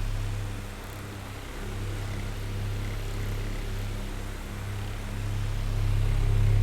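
Oscillating electric fan running: a steady low motor hum under a soft airy whir. It grows quieter about a second in as the fan turns away, then swells back near the end as it sweeps round again.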